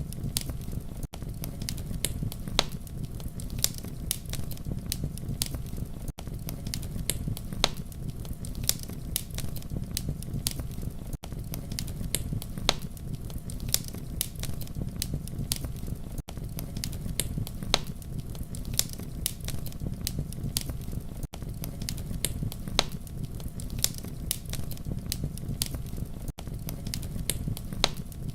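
Campfire crackling and popping over a steady low rumble of burning. Short dropouts come about every five seconds.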